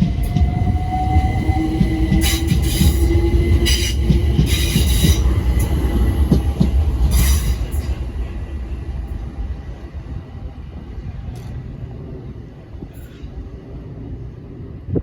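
London Overground Class 378 electric train pulling away: its motor whine rises in pitch as it accelerates over heavy rail rumble, with several bursts of high wheel squeal. It fades after about eight seconds as the train leaves.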